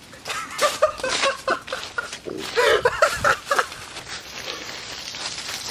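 People laughing in short bursts, loudest about two and a half to three and a half seconds in.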